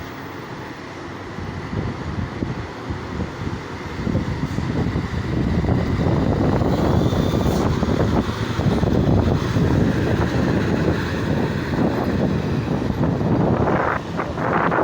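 Hino cargo truck's diesel engine running as the truck drives, a low rumble that grows louder a few seconds in, with wind buffeting the microphone.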